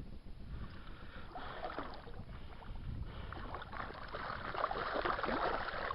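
Water splashing and lapping, a busy crackling wash that grows louder toward the end.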